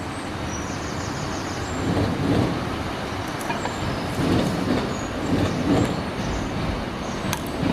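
A large vehicle running close by: a steady rumble with several louder swells through the middle.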